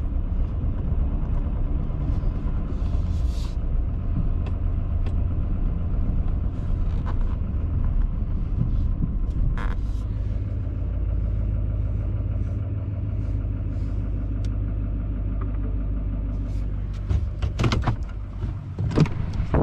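Wind buffeting the microphone: a steady low rumble that turns gusty and uneven near the end.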